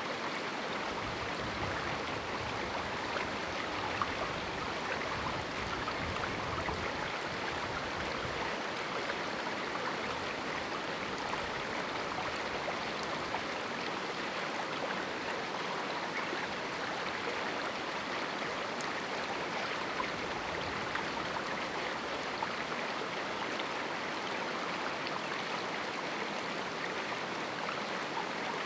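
A canyon river running over rocks: a steady, even rush of flowing water.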